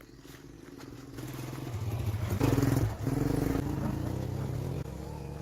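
A small engine running, growing louder over the first two and a half seconds, then holding steadier.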